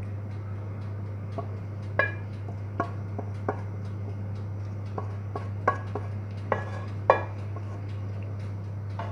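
Scattered clinks and knocks of kitchen utensils and dishes, about a dozen at irregular intervals, the loudest about two and seven seconds in, over a steady low hum.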